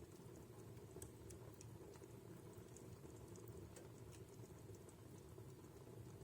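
Wood fire burning in a fireplace: a quiet steady rumble of the flames with scattered small, sharp crackles from the burning logs at irregular intervals.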